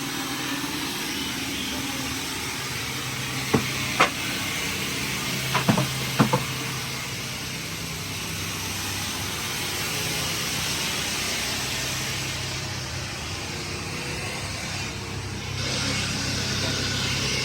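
Heavy engine running steadily under a broad hiss, with a few sharp knocks from about three and a half to six and a half seconds in. The noise grows a little louder near the end.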